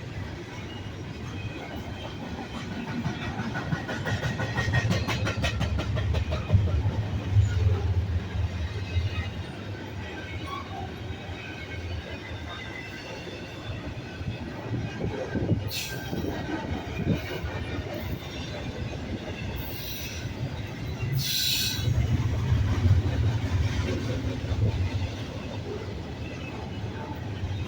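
Freight cars of a Norfolk Southern intermodal train rolling past with a steady rumble that swells twice. The wheels clatter over the rail joints, and a faint high wheel squeal runs underneath.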